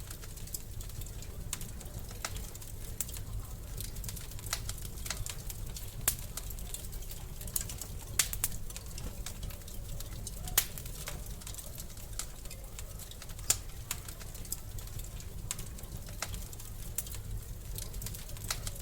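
Wood fire crackling in a fireplace: irregular sharp pops and snaps, a few much louder than the rest, over a steady low rumble of the flames.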